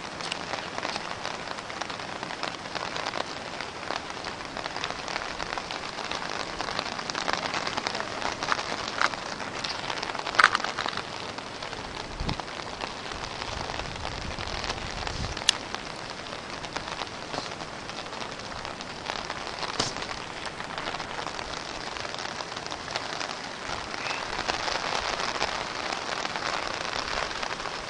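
Steady rain falling, an even hiss with scattered sharper drop hits and a few louder clicks.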